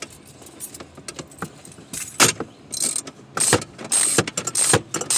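Metal hand tools clinking and knocking as a socket and extension are worked on a bolt behind a car's dashboard. It is quiet at first, then a handful of sharp clacks come from about two seconds in, with a faint metallic ring among them.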